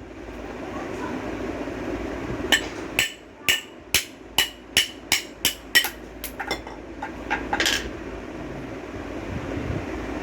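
Hammer blows on metal knocking a ceiling fan motor bearing loose: about nine sharp, ringing strikes roughly two a second, then several lighter taps, over a steady background murmur.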